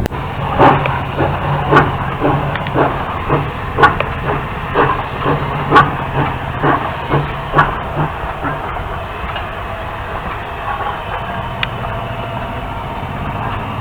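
Steam train on the move: a regular beat about twice a second over a steady rumble and hiss, fading into a smoother running noise after about eight seconds.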